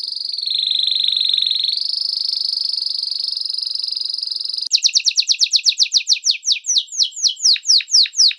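A small songbird singing: a long, high, steady trill that dips slightly in pitch for a moment, then about four and a half seconds in a fast run of quick falling whistled notes, four or five a second.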